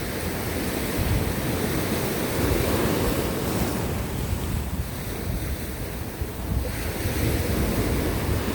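Sea waves breaking and washing over coastal rocks, a steady surf rush that swells and eases over a few seconds, with wind buffeting the microphone.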